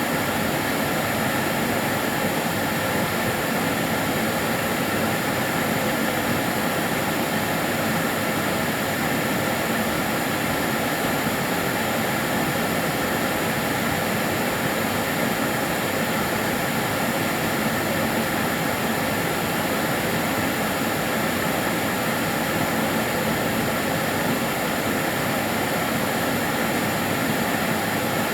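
Kärcher DS 6 Premium water-filter vacuum cleaner running steadily: an even rushing noise with a thin high whine over it.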